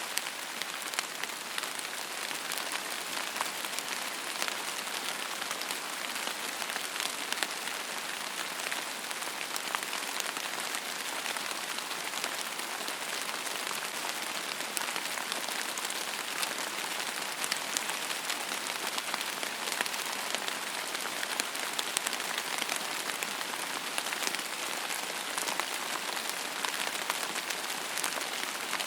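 Steady rain falling and pattering on a surface, an even hiss full of small drop ticks.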